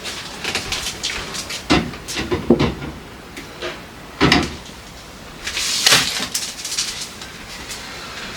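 Knocks and clatter of containers and fridge parts being handled as a refrigerator is cleaned and restocked, with a brief rustling hiss about five and a half seconds in.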